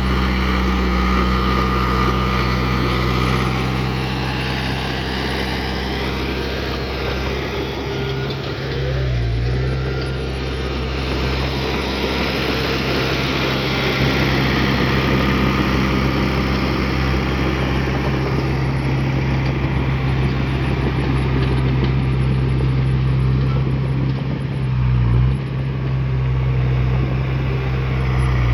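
Bulldozer's heavy diesel engine running steadily under work, its pitch dipping briefly and recovering twice, about nine seconds in and near the end.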